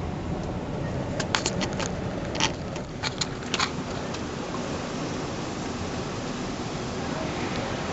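Car driving slowly, with a steady low rumble of engine and road noise from inside the cabin. A quick run of sharp clicks and taps comes between about one and four seconds in.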